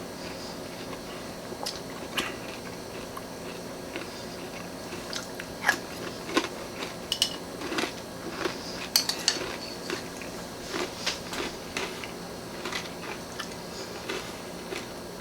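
A person chewing and crunching a mouthful of granola cereal in milk, with irregular crunches and a few sharper clicks about halfway through, typical of a spoon against the bowl.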